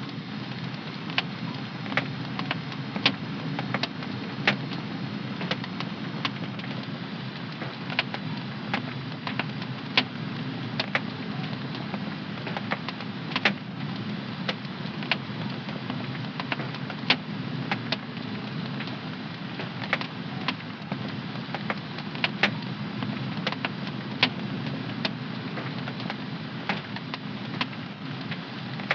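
Wood fire in a home fireplace crackling, with irregular sharp pops, several a second, over a steady low rush of flame.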